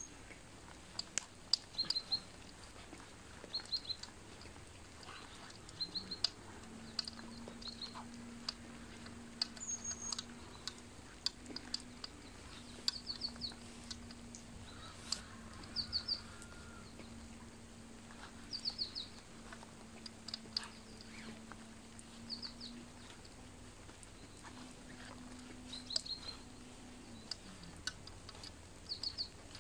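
A small bird repeating short high chirps every couple of seconds, over scattered clicks and a steady low drone that starts about six seconds in and stops near the end.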